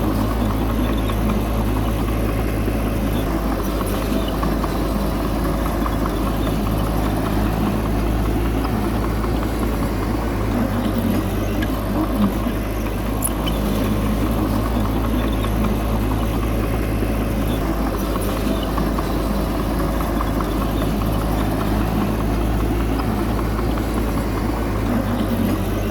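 Bulldozer's diesel engine running steadily under load, with a few faint clicks.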